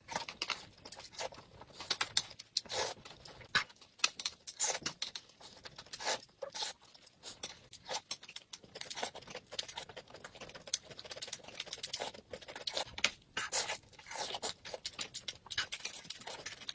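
Close-miked eating sounds: a person chewing dumplings with wet mouth smacks, a dense, irregular run of short clicks and crackles.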